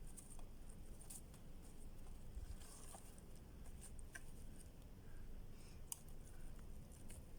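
Faint scattered crackles and small clicks from a smouldering twig campfire just starting to catch, over a low rumble.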